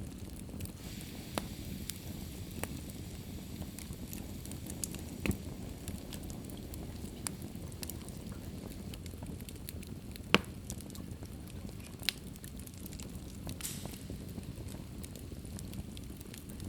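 Wood fire burning in a fireplace: a steady low rush of flames with scattered crackles and sharp pops, the loudest pop about ten seconds in, and a short hiss near the end.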